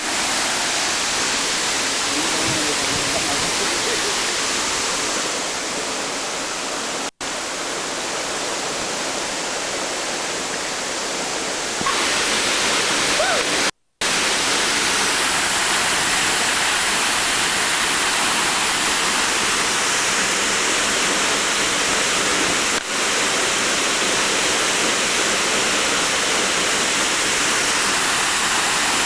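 Steady rush of falling water, like a waterfall or fast stream, with faint voices under it; the sound cuts out briefly twice, about 7 and 14 seconds in.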